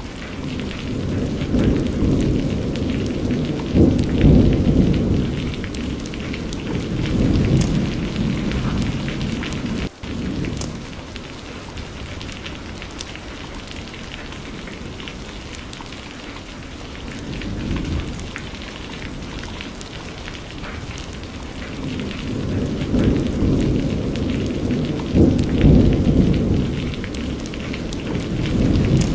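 Steady rainfall with rolls of distant thunder: a long low rumble swells early on and another builds through the second half. The sound drops out for an instant about ten seconds in.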